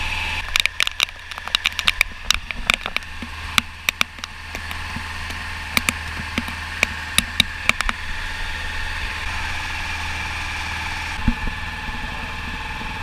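Engine running steadily with a constant drone. Over it come many sharp, irregular ticks for the first eight seconds or so, with one more near the end: raindrops hitting the camera.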